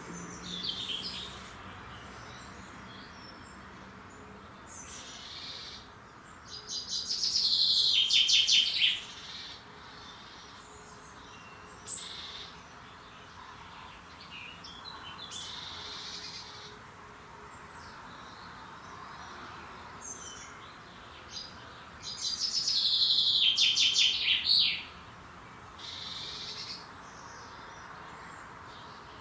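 Songbirds singing. A loud song of rapidly repeated notes lasts about two and a half seconds, starting about seven seconds in, and is sung again about twenty-two seconds in. Shorter chirps and calls come in between.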